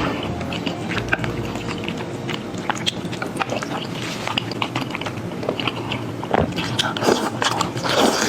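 Close-up wet chewing and slurping of soft, sticky rice noodles in a spicy sesame sauce: irregular smacking and squelching mouth sounds, busier near the end.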